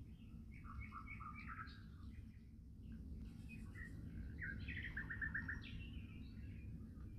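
Birds chirping and calling, with a quick run of about five repeated notes a little after halfway through, over a steady low rumble.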